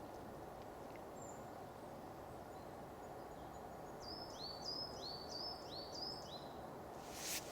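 Small songbird singing a quick series of about five repeated rising, high whistled notes a little past halfway, over a steady outdoor background hiss. A brief loud rush of noise comes just before the end.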